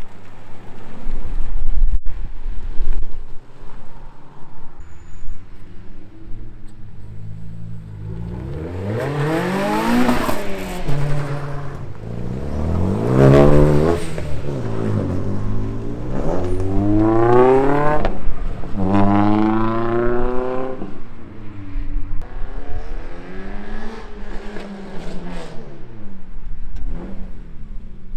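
Car engines revving as cars pull away, the engine pitch climbing and dropping back several times. The loudest revs come in the middle stretch, with a low rumble near the start.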